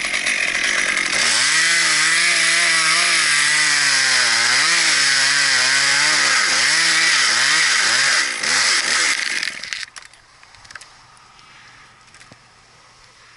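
Chainsaw cutting through a cottonwood limb at full throttle, its engine pitch dipping and recovering as the chain bogs in the wood. The saw stops at about ten seconds in.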